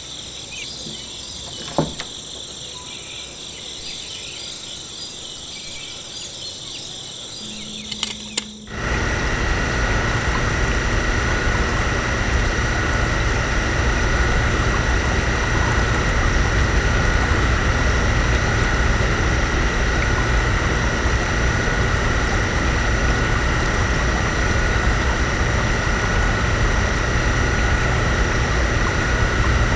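Crickets chirping, with a sharp click about two seconds in. About nine seconds in, a small electric pump motor starts suddenly and runs steadily with a whine, pumping liquid through a miniature model fuel pump's nozzle.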